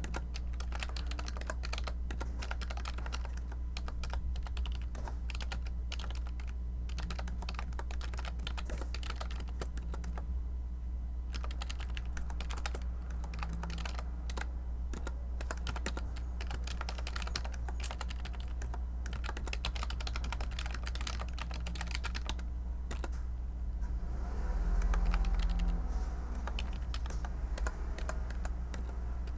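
Typing on a computer keyboard: a steady run of key clicks with a couple of short pauses, over a low steady hum. A low rumble swells briefly near the end.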